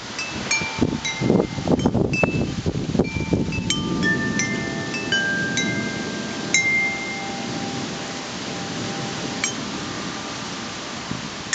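Wind chimes ringing, struck over and over by gusts, each note hanging on, over the rush of wind. The strikes come thick in the first half and thin out to a single note near the end.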